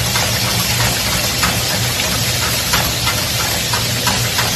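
Sliced potatoes frying in hot oil in a pan: a steady sizzle with scattered crackling pops, over a low steady hum.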